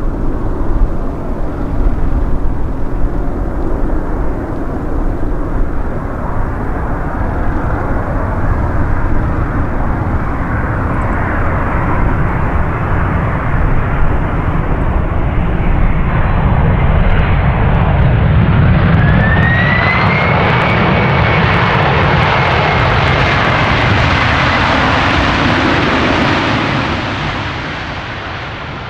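Jet engines of a Boeing 767-300 airliner running close by, a dense rumble and roar that grows louder through the middle. About two-thirds of the way in, a high whine rises and then holds steady. The roar eases off near the end.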